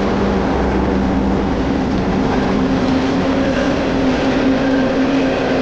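A train passing close by: a loud, steady rumble with a low, even drone running under it.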